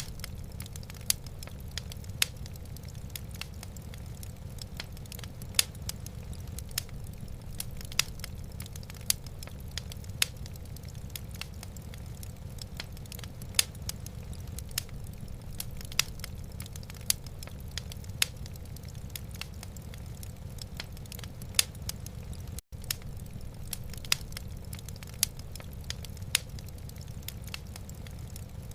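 Wood fire crackling in a fireplace, with irregular sharp pops and snaps over a steady low rumble. The sound cuts out for an instant about 23 seconds in.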